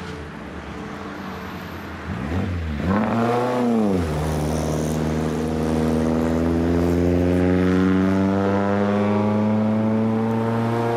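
René Bonnet Djet sports car's engine under way: its revs rise and fall sharply about two to four seconds in, then it pulls hard with its pitch slowly climbing as the car accelerates.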